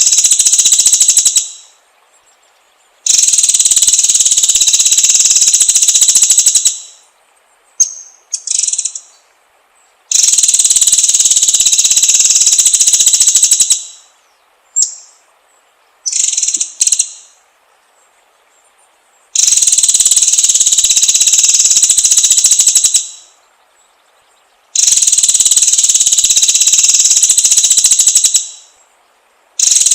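Songbird singing a high, rapid buzzing trill of about three to four seconds, repeated five times with pauses between, and a few short high chirps in the gaps.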